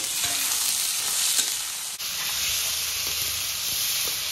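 Chopped onions and tomatoes sizzling as they fry in oil in a kadai, with a metal spoon stirring and scraping against the pan now and then.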